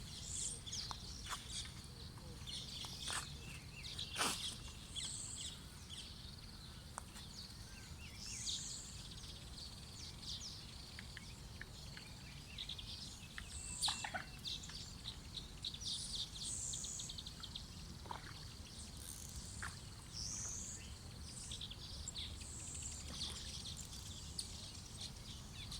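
Small birds chirping and calling, many short high calls with a few louder ones, over a steady low background rumble.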